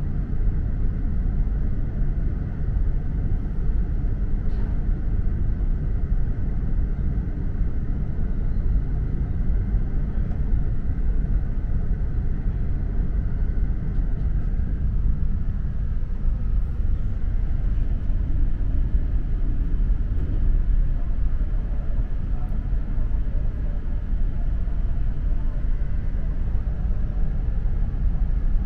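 Running noise inside the lower-deck cabin of an E4 Series Max double-deck Shinkansen: a steady low rumble of the train moving along the track.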